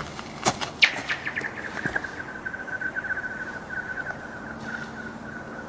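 A rock thrown onto an ice sheet strikes it with two sharp clicks, then skitters across it. The ice gives off a rapid chirping that runs together into a single ringing tone, sliding slowly down in pitch for about five seconds as it fades.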